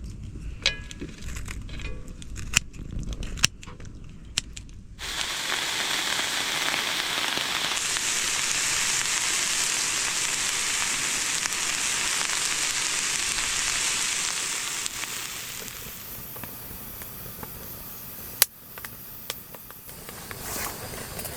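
Light clicks and knocks of handling, then food hitting a hot pan sizzling loudly, starting suddenly about five seconds in and dying down some ten seconds later; a sharp click near the end.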